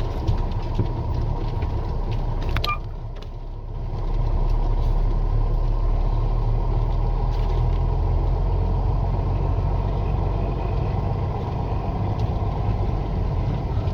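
Truck engine and drivetrain rumbling steadily, heard from inside the cab. The rumble drops off after a click about three seconds in, then comes back louder and holds steady.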